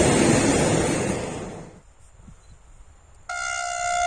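Rumble and clatter of a departing freight train's open-top wagons on the rails, fading away in the first two seconds. About three seconds in, an approaching locomotive sounds one steady horn blast of about a second, the Rp1 attention signal.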